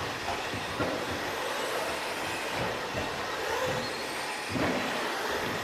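Several 2WD electric RC stadium trucks with 13.5-turn brushless motors racing on the track: a continuous mix of motor whine and tyre noise, with faint rising and falling tones and a louder surge near the end.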